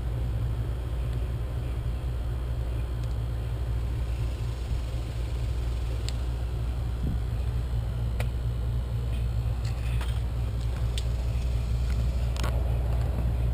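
A steady low rumble with a few light clicks and taps scattered through it, from hands working on the outlet box and its gasket.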